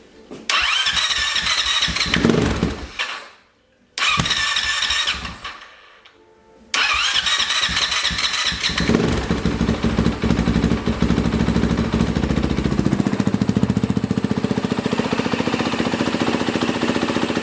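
Honda CRF450R single-cylinder four-stroke engine starting up after a top-end rebuild. It fires and revs, dies out twice within the first seven seconds, then catches and keeps running, revving before settling to a steady idle near the end; the owner judges it to sound healthy.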